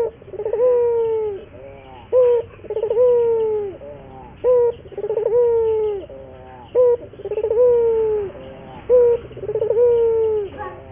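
Puter dove (Barbary dove) cooing its song over and over, about every two seconds: a short sharp note, a quick rolling stutter, then a long falling coo. Each phrase repeats five times in a steady rhythm.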